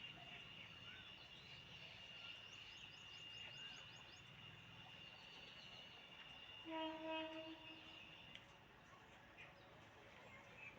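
Faint rural background: a steady high-pitched insect drone with quick bird chirps, and a short horn blast about two-thirds of the way in.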